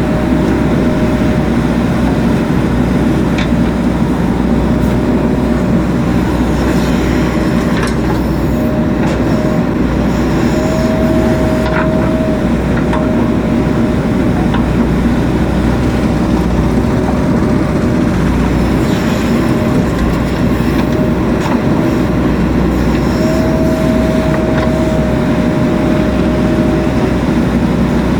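JCB 3DX Super backhoe loader's diesel engine running steadily under working load, with a steady high whine that comes and goes three times and a few light knocks.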